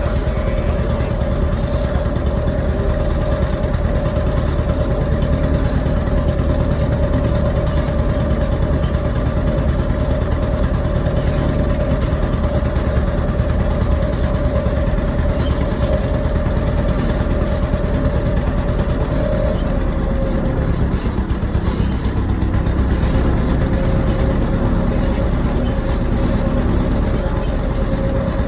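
Tractor engine running steadily while towing a trolley wagon, with a constant rumble and a steady whine that drops out for a few seconds about twenty seconds in.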